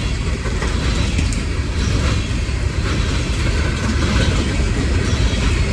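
Coal train's cars rolling past close by: a steady, loud rumble of wheels on rail with faint clicks.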